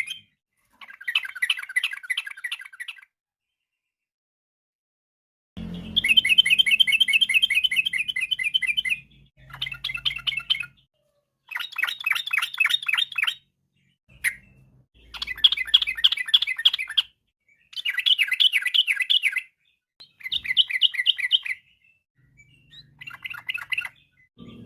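Yellow-vented bulbul song: about eight bouts of rapid, bubbling chattering notes, each one to three seconds long and separated by short pauses, with a longer silent gap a few seconds in.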